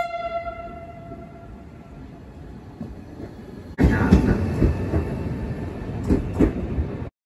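Electric commuter trains arriving at station platforms. A brief high tone fades away at the start over a quieter train rumble. About four seconds in it cuts to a louder Trenord electric multiple unit running in, with a few sharp rail clicks near the end, and the sound stops abruptly.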